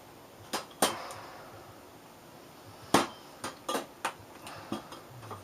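Hard objects being handled on a bench: a scattering of sharp clicks and knocks, the loudest about three seconds in.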